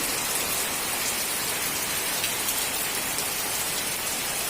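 Heavy rain falling steadily, an even hiss of drops striking surfaces.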